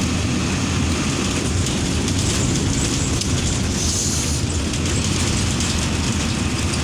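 Coach bus running at speed: a steady engine drone under heavy road and wind noise, with a brief hiss about four seconds in.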